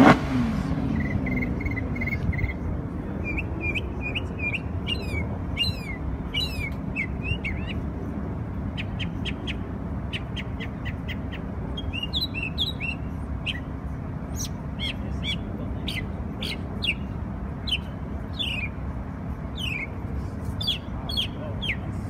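A songbird sings a series of short chirps and downward-slurred whistles, with a quick even trill about a second in, over a steady traffic rumble. Right at the start a car engine revs loudly, its pitch sweeping down as it fades; this is the loudest sound.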